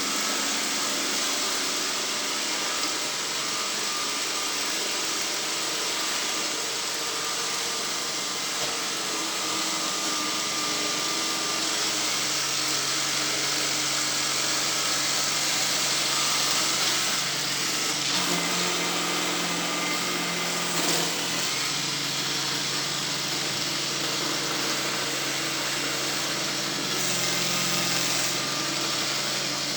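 A motorized sweeping machine with a small engine, running steadily with a constant rushing, whirring drone. Its low hum shifts slightly partway through.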